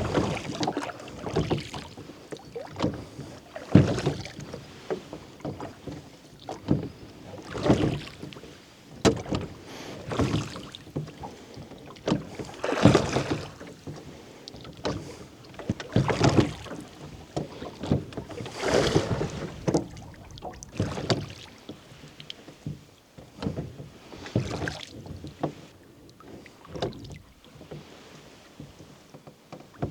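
Oars of a rowboat dipping and pulling through lake water, a splashing stroke every two to three seconds.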